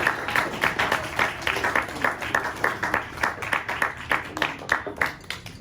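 A roomful of people applauding, dense clapping that thins out and stops near the end.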